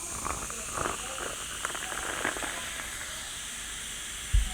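Steady hiss with faint crackles in the first couple of seconds and one dull thump near the end.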